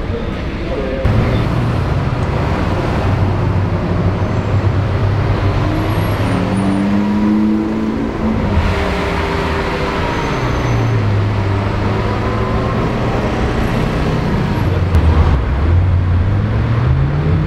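Supercar engines revving and accelerating in street traffic, the engine note climbing, dropping and climbing again. The sound changes abruptly a few times as one car's clip gives way to another.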